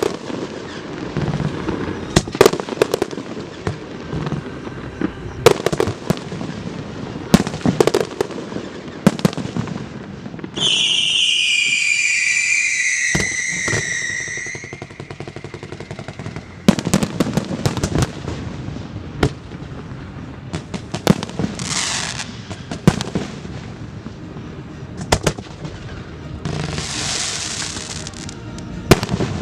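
Aerial fireworks display: repeated sharp shell bursts and crackles throughout. About a third of the way in a loud whistle of several tones glides downward for about four seconds, and two shorter hissing rushes come later.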